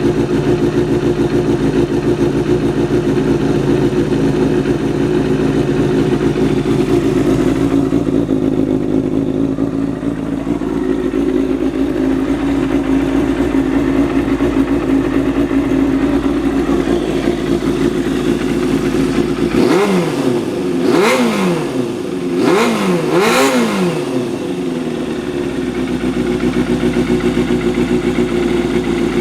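Kawasaki Balius II 250 cc inline-four motorcycle engine idling steadily through a Pretty Racing aftermarket exhaust muffler. About two-thirds of the way through it is revved four times in quick succession, each rev rising and dropping back, then it settles to idle again.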